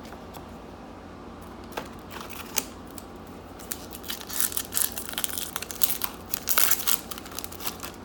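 Crinkling of a foil hockey-card pack wrapper being handled and torn open. There are a few scattered crackles at first, then dense crinkling in the second half.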